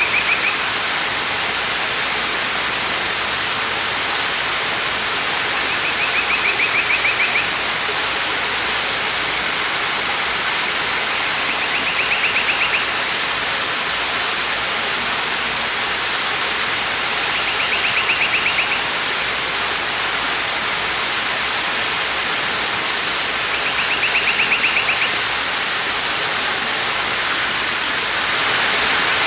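Waterfall pouring with a steady, even rush. A short, rapidly pulsed high trill comes about every six seconds, four or five times.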